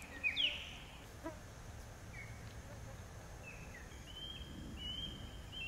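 Faint birdsong: a few short chirps and whistled notes, with a quick run of repeated notes near the end, over a low steady background hum.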